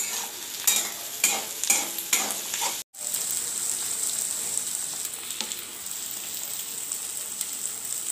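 Onion and capsicum frying in mustard oil in a kadhai: a spatula scrapes and clacks against the pan about once every half second, then after a brief gap a steady sizzle carries on.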